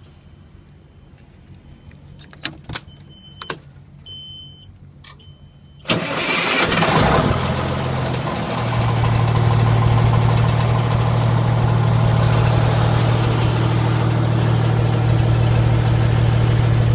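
A few clicks and short high beeps, then about six seconds in the Kenworth W900's Cummins N14 inline-six diesel cranks and starts. It settles into a steady idle.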